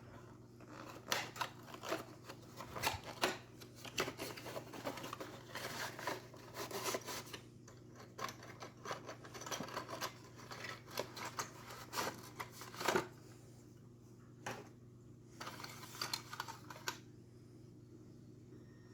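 Hands working open a small old cardboard box: irregular scrapes, rustles and taps of cardboard, busy at first and thinning out after about thirteen seconds, over a faint steady low hum.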